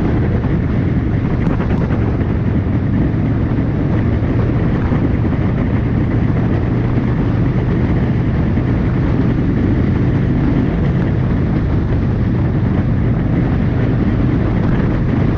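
Harley-Davidson motorcycle running at a steady cruising speed: a constant low engine drone under heavy rushing wind noise, with no change in speed.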